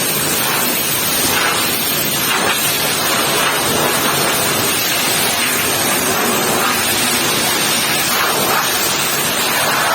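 High-pressure water spray hitting a truck: a loud, steady hiss.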